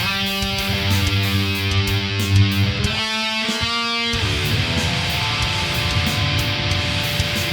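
Distorted electric guitar playing heavy metal riffs and chords, recorded direct.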